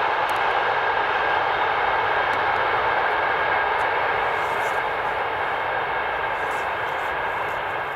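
A train passing at speed: steady wheel-on-rail noise with a couple of faint steady tones through it, easing slightly over the last few seconds.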